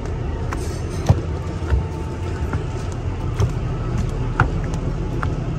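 Kalka–Shimla narrow-gauge toy train: a steady low rumble with scattered sharp clicks and knocks.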